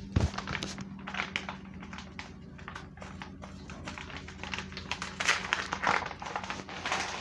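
A low thump, then a run of irregular light taps, clicks and scrapes of a utensil against a container as powdered ingredients are handled, over a faint steady hum.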